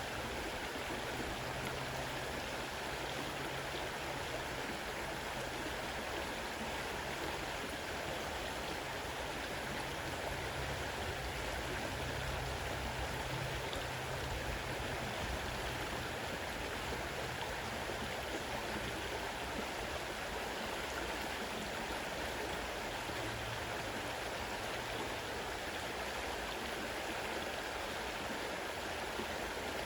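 Fast-running river water rushing steadily over rocks, an even, unbroken rush of water.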